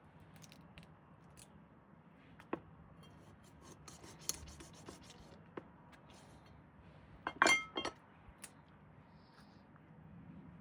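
Close-miked scratching and rubbing with scattered small clicks, and a louder burst of scraping strokes about seven and a half seconds in.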